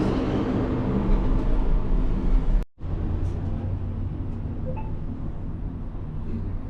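Steady low hum and rumble of a moving cable-car gondola. It cuts out abruptly a little under halfway through, then resumes slightly quieter.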